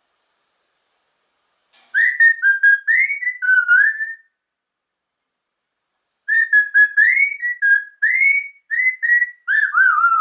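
Whistling in two phrases of short, quick notes that slide up and down in pitch, with a pause of about two seconds between them; the last notes fall away at the end.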